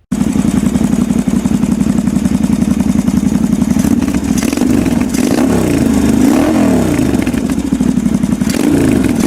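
Motorcycle engine running, starting abruptly. From about halfway in, the engine speed rises and falls several times.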